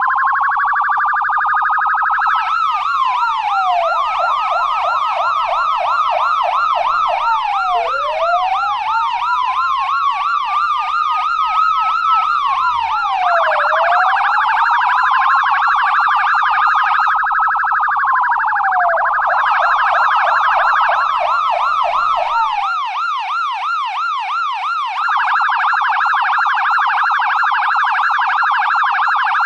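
US police car electronic siren, loud and continuous, switching between patterns: a slow rising-and-falling wail, a fast yelp, and a very rapid warble. The wail and yelp often sound together.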